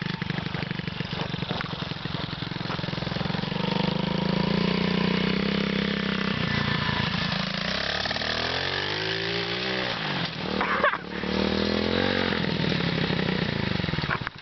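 Pit bike engine running at steady revs, then its pitch drops and climbs again twice, as the revs fall and rise on the throttle.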